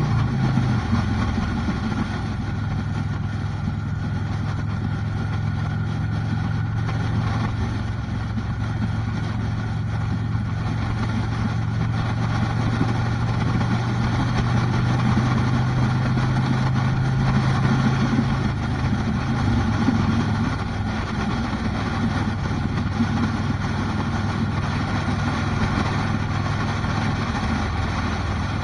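Motorcycle engine running steadily under way, with a steady low drone whose pitch shifts about a second in and again around twenty seconds in.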